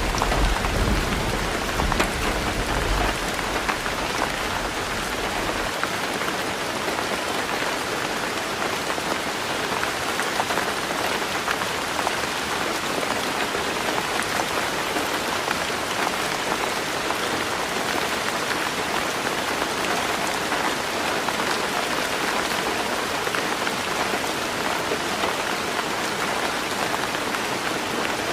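Heavy rain drumming steadily on a tin roof, with the low rumble of thunder dying away in the first few seconds.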